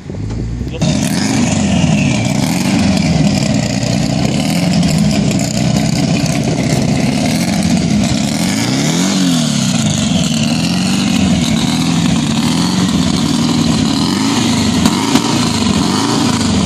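Loud drag-car engine revved up and down over and over, about once a second, with one bigger rev about nine seconds in; it comes in suddenly about a second in.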